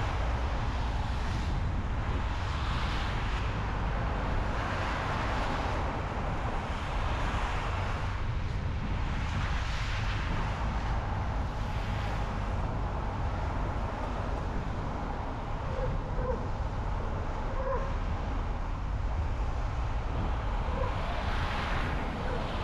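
A car driving on the road: a steady low rumble of tyres and wind, with a hiss that swells and fades several times.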